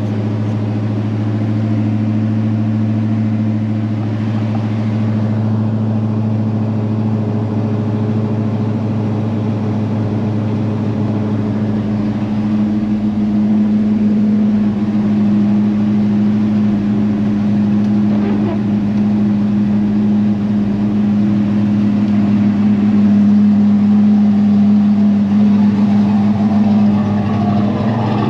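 1984 Ford F250's 460 big-block V8 idling steadily just after a cold start, growing slightly louder partway through.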